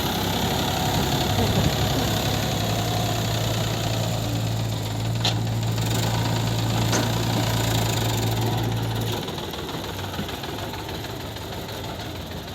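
Diesel engine of heavy machinery running steadily with a low hum, easing off and getting quieter about nine seconds in. A couple of sharp clicks sound in between.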